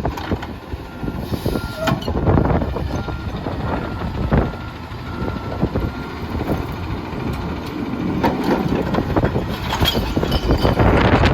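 Garbage truck running, with strong wind buffeting the microphone as a gusty, uneven rumble and a few louder surges.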